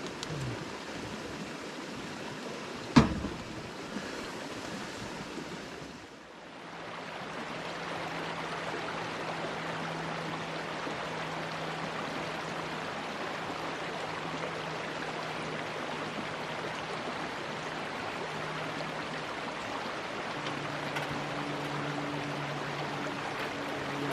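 Steady rushing water noise, with a single sharp knock about three seconds in and a faint low hum under it from about six seconds on.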